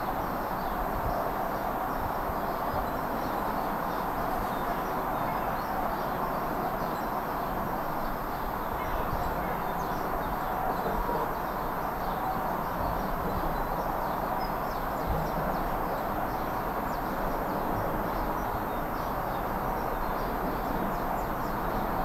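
Outdoor ambience: a steady rushing background with faint, scattered bird chirps and a few soft low bumps.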